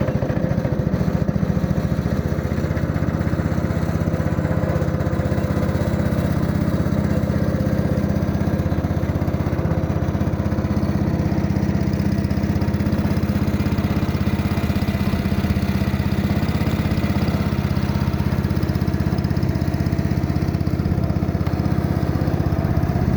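An engine running steadily at an even speed, a loud, close, unchanging drone.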